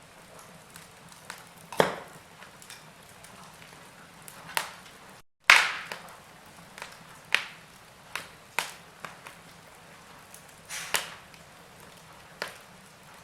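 Wood fire crackling in a fireplace: irregular sharp pops and snaps, about one loud one every second or two, with smaller ticks between them over a low steady hiss. The sound cuts out completely for a moment about five seconds in, and the loudest pop follows right after.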